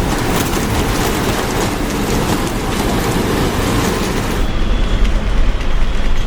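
Storm at sea: strong wind and heavy waves, a dense rumble with a loud hiss that eases about four and a half seconds in.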